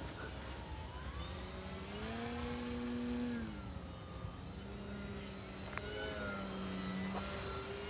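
Faint hum of a radio-control model airplane's motor in flight, rising in pitch about two seconds in and falling back about a second later, then running steadily.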